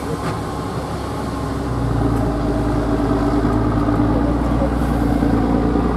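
Heavy truck engine running with a steady drone, growing louder about two seconds in.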